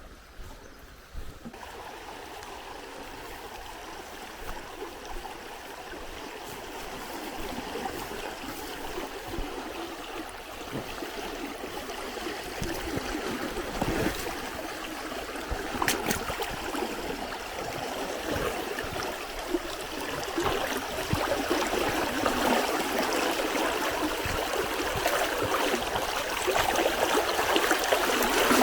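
River water rushing and gurgling steadily, growing gradually louder toward the end.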